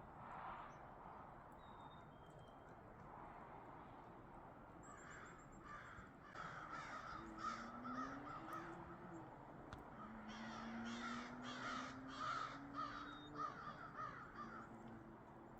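Crows cawing, a long run of quick repeated caws in two bouts with a short pause between them.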